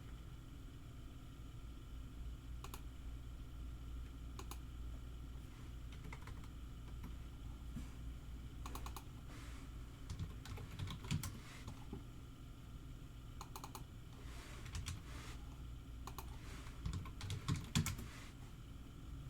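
Computer keyboard typing in scattered runs of keystrokes over a low steady hum, with a few short rustles, busier in the second half.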